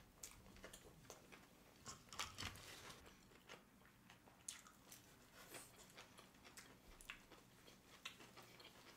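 Faint close-miked chewing of sushi rolls: scattered soft mouth clicks and smacks, a little louder about two seconds in.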